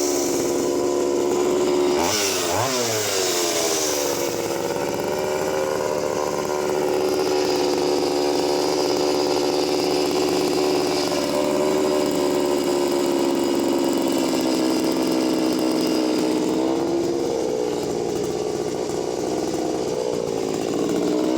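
Two-stroke chainsaw cutting through a log at full throttle: a quick rev about two seconds in, then a long, steady engine note as it pulls through the wood without bogging, dipping slightly near the end before revving up again as it clears the cut. The cut is described as ferocious, with no hesitation from the engine.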